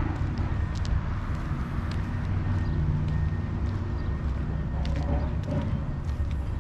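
Steady low rumble of a vehicle, with a few faint scattered clicks.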